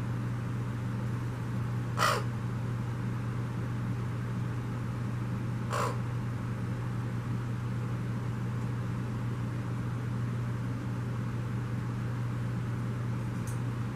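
Steady low hum and rush of a fallen-in water pump throwing up a jet of water, with two short, harsh bird calls, about two seconds and six seconds in.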